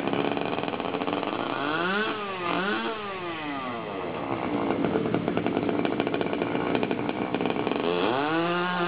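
Small engine of a 1/5-scale R/C pulling tractor running with a buzzing, chainsaw-like note, blipped up and down twice about two to three seconds in, then revving up to a higher steady pitch near the end.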